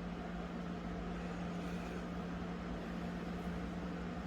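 Steady room hum: a constant low tone under an even hiss, with no other events.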